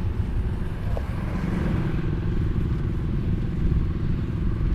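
Case IH AF10 combine's 15.9-litre engine running steadily under load as the machine harvests corn with a 16-row corn head: a continuous low drone with a steady hum.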